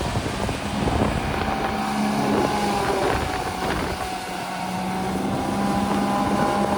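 John Deere tractor's diesel engine running at a steady speed with a Napier grass cutting machine, giving a constant low hum over mechanical noise.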